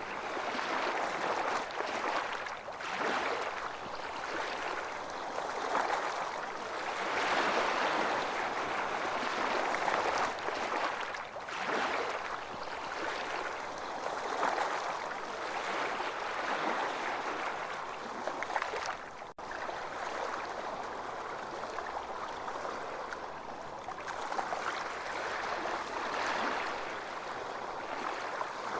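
Ocean surf washing onto a beach: a continuous rush of water noise that swells and eases irregularly, with a brief break in the sound about two-thirds of the way through.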